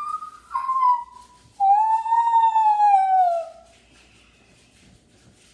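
A person making high-pitched bird-imitation calls with the mouth: a few short stepped notes, then one long call that rises slightly and slides down, lasting about two seconds.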